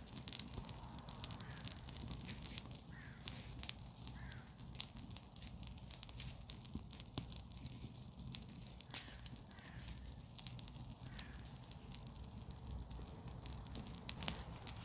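Garden fire burning garden waste, crackling with frequent sharp pops and snaps. A bird calls several times in short notes over it.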